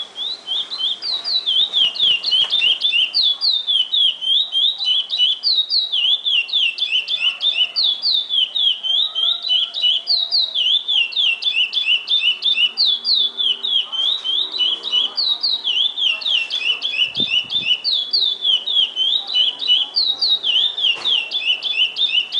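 Chestnut-bellied seed finch (curió) singing the 'praia clássico' song: an unbroken run of quick, high, slurred whistled notes repeated in a steady pattern.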